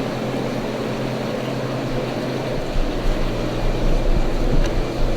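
Steady hum of aquarium tank pumps and filters, with a faint bubbling wash, and low rumbling bumps in the second half.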